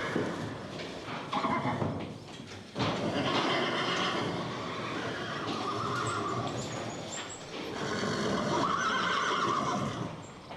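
An animal calling several times: a short call near the start, then two long, rough calls of a few seconds each.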